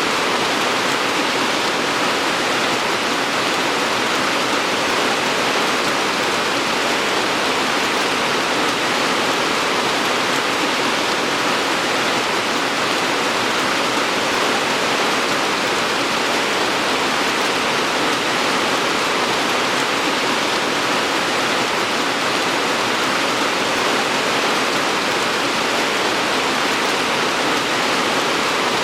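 Steady rainfall, an even hiss of rain falling without a break.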